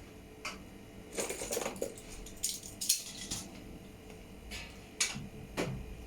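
Irregular clicks, clinks and short rattles of small hard metal and plastic pieces being handled, as when tools and parts are picked up and set down during an appliance repair. The sharpest knocks come about three seconds in and again near five seconds.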